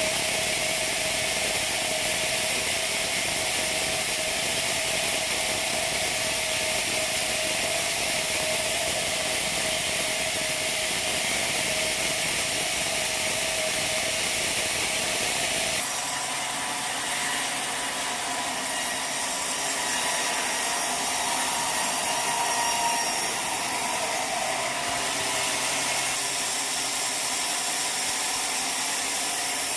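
Sawmill machinery running steadily, a powered saw working on wood. About halfway through the sound changes abruptly to a different running sound with several steady tones.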